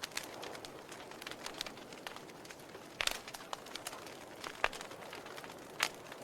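Wood fire burning in a fireplace: a steady soft hiss with irregular sharp crackles and pops, the loudest about three, four and a half, and six seconds in.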